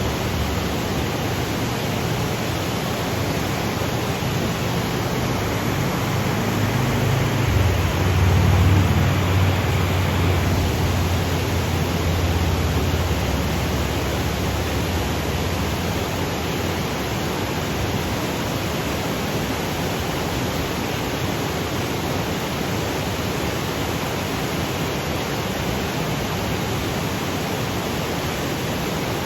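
Waterfall cascading over granite boulders: a steady, even rush of falling water. A low rumble swells for a few seconds about eight seconds in.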